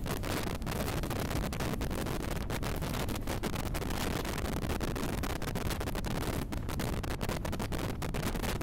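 Steady, even rushing noise of a moving passenger train, heard from its open doorway, with no distinct wheel clatter.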